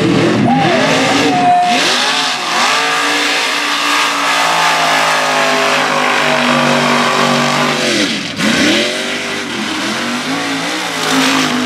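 Mega truck's engine revving hard under racing load. Its pitch swings up and down, holds high for several seconds, then drops sharply about eight seconds in before climbing again.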